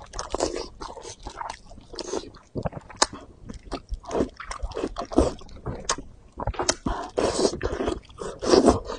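Close-miked wet chewing and biting of fatty pork in chili oil: irregular sticky mouth clicks and smacks.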